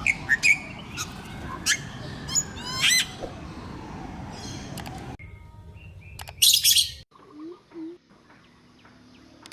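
Birds chirping, with short repeated chirps and a quick trill over a steady background hiss. After a cut, a brief loud hissing burst comes about six and a half seconds in, followed by two short low calls.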